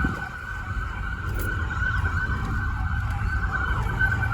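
Police siren sounding steadily over the low rumble of car engines.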